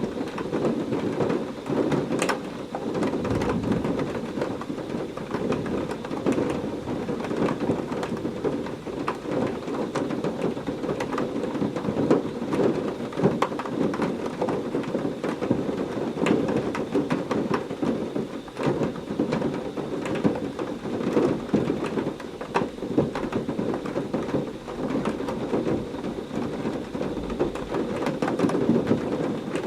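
Heavy rain falling steadily, with dense drop hits throughout and low thunder rumbling a few seconds in and again near the end.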